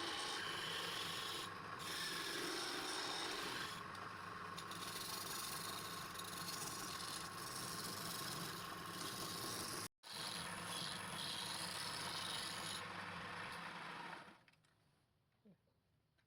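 Steady abrasive rubbing with a faint steady hum beneath it. It drops out for an instant about ten seconds in, resumes, and stops about fourteen seconds in.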